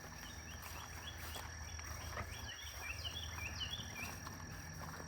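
Insects trilling steadily, with a bird giving a quick run of short chirps over the first four seconds, above a low steady hum.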